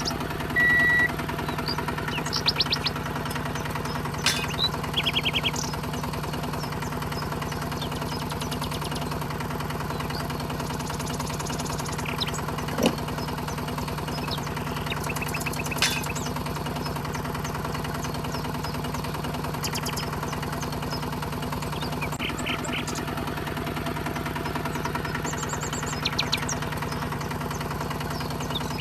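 Small electric motor of a DIY mini tractor running steadily, an even buzzing hum, with a few short high chirps over it.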